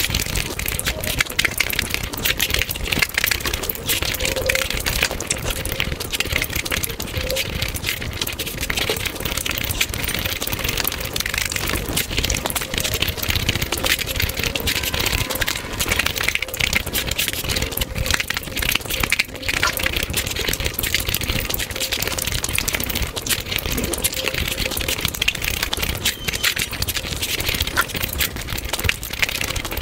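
Eating sounds played at five times speed: a rapid, unbroken clatter of chewing and mouth smacks as chicken biryani is eaten by hand.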